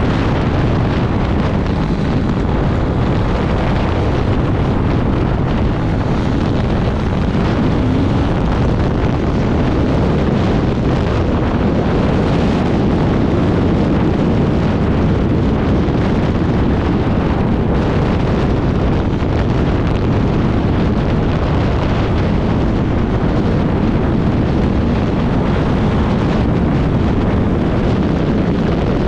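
Off-road dirt bike riding at speed, its engine running hard under heavy wind buffeting on the microphone.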